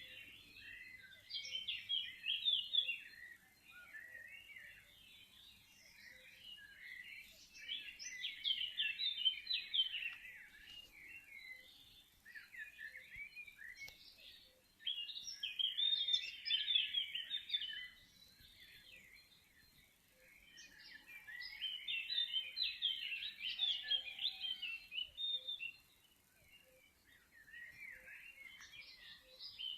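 Many birds singing at once in a dawn chorus of fast, high chirps. It swells into loud spells of a few seconds, with quieter scattered chirping between.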